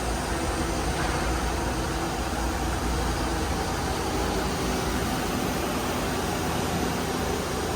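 Mazak Multiplex 6200Y CNC turning center running under power: a steady hum with a low rumble and faint steady whining tones.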